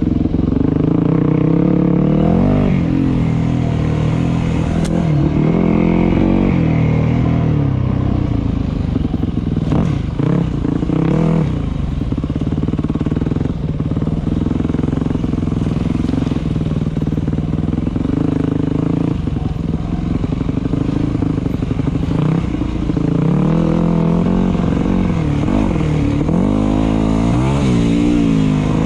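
Dirt bike engine running while being ridden on a trail, the revs rising and falling with the throttle and easing off briefly about ten seconds in.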